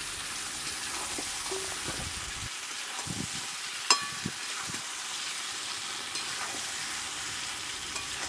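Chicken pieces and fried potatoes sizzling in spiced oil in a metal pot, stirred with a metal spatula that scrapes the pot. A single sharp metal clink about four seconds in.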